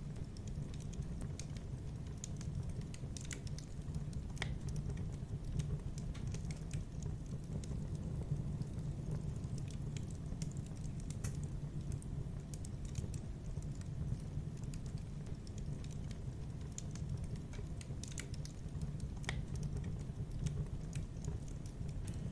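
Fireplace fire crackling: irregular sharp pops and snaps over a steady low rumble of the burning.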